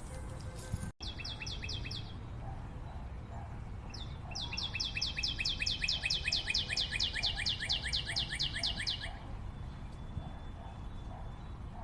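A forest bird calling in fast series of repeated down-slurred notes, about five a second. There is a short bout near the start and a longer one of about five seconds beginning about four seconds in.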